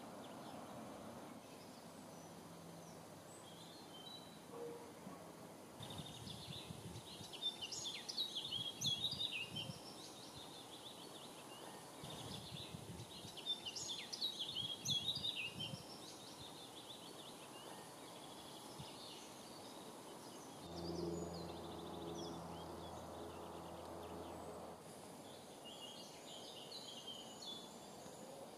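Small songbirds singing in three short bouts of high, chirpy song over a faint outdoor background. A faint low hum joins for a few seconds a little past the middle.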